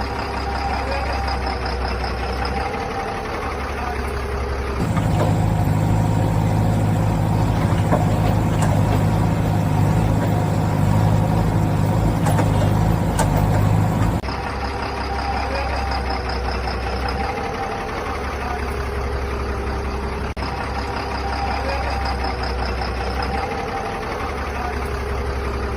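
Heavy-vehicle engine sound effect for toy trucks and a JCB digger: a steady idling loop that switches abruptly about five seconds in to a louder, deeper engine drone, then cuts back to the idling loop about nine seconds later.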